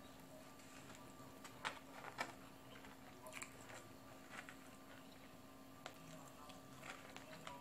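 Quiet chewing and mouth noises of a person eating, with a scatter of short wet clicks and smacks; the two loudest come about a second and a half and two seconds in. A faint steady hum lies underneath.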